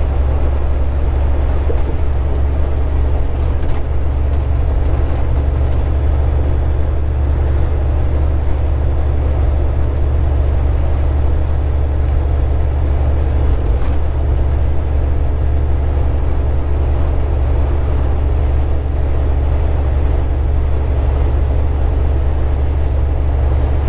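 A Volvo 780 semi truck cruising at highway speed, heard from inside the cab: a steady, deep engine drone with road noise, unchanging throughout, with a few faint clicks.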